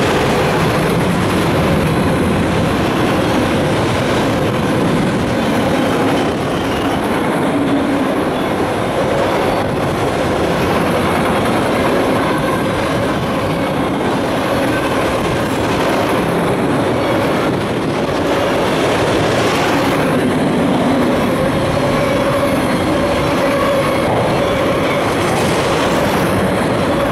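Freight train of enclosed autorack cars passing close by at speed: a steady rumble of steel wheels on the rails, with a faint steady wheel whine above it.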